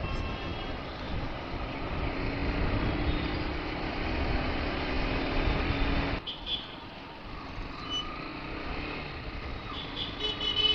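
Road noise from a moving motorcycle, engine and wind rumble, which drops off abruptly about six seconds in. Quieter traffic follows, with vehicle horns sounding near the end.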